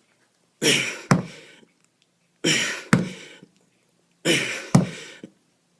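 A man's forceful, hissing exhales in time with kettlebell reps, three of them about two seconds apart, each followed about half a second later by a sharp click.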